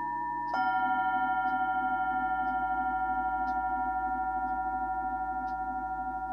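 Himalayan singing bowl struck about half a second in, over a bowl still ringing from before; several clear steady tones sustain and slowly fade with a fast, even wobble.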